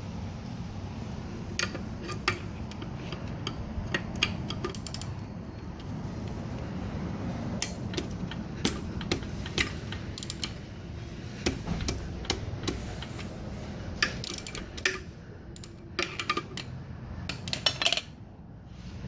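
Scattered light metallic clinks and clanks of hand tools on engine parts during a bottom-end teardown, over a steady low background rumble. The clinks come in loose clusters and are busiest near the end.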